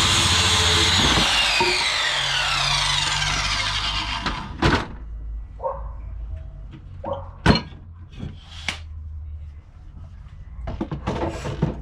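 A power tool's motor running at full speed, then released so its whine falls in pitch as it spins down over a few seconds. After that come several separate sharp knocks of wood.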